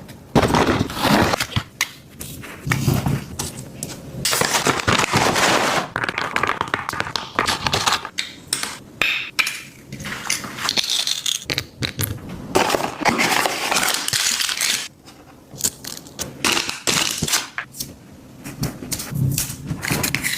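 A cat eating, chewing and crunching its food in irregular bouts of bites with short pauses between.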